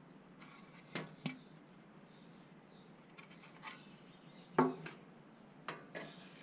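A few light clicks and knocks of small hard objects being handled, the louder ones coming in close pairs, about a second in, past the middle and near the end, with faint scraping and rustling between them.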